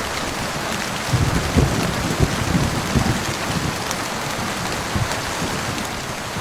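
Heavy rain pouring steadily, with an uneven low rumble of thunder underneath that is stronger in the first half and fades towards the end.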